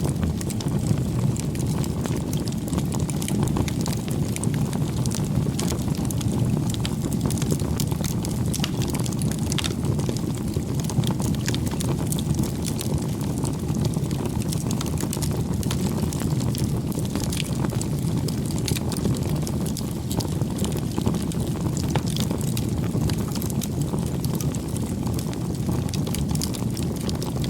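Campfire burning, a steady low rumble of flames with frequent small crackles and pops from the burning wood.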